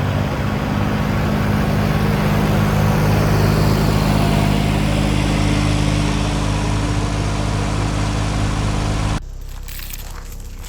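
Engine running loud and steady. It cuts off abruptly about nine seconds in, leaving quieter crunching sounds.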